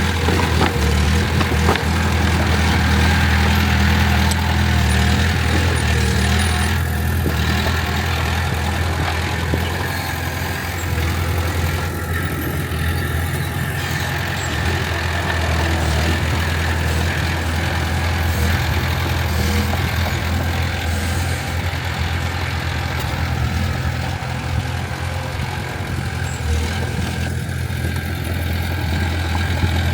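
Heavy earthmoving diesel engine running steadily at an even speed, with a deep hum and no revving.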